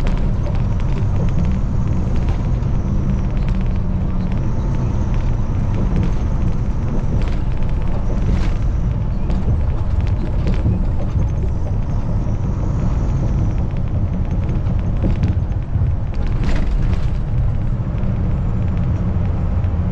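Kenworth T680 semi-truck cruising at highway speed, heard from inside the cab: a steady low rumble of engine and road noise, with a couple of short rattles or knocks along the way.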